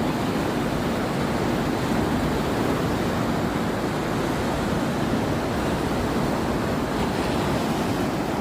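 Heavy wind rushing over the microphone, mixed with surf breaking on the beach, as a steady noise.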